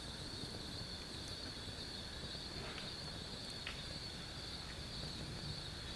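Night insect chorus, crickets trilling in one continuous high-pitched band, over a low steady hiss, with a few faint clicks.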